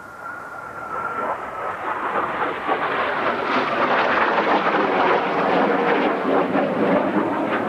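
Kawasaki T-4 jet passing overhead: a thin engine whine fades out in the first second or two as the jet roar swells, growing loud by about three seconds in and staying loud.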